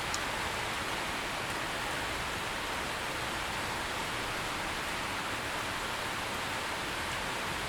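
Steady rain falling, an even hiss with no break in it.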